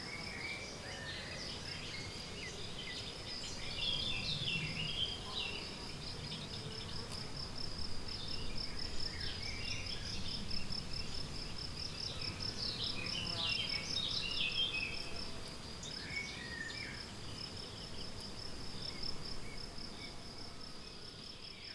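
Meadow ambience: a cricket sings a steady, evenly pulsed high trill, while songbirds call in short, repeated phrases over it.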